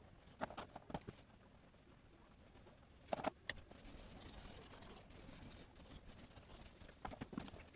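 Faint taps and handling clicks of drawing tools on paper, in three short clusters, with a soft scratching stroke across the paper in the middle.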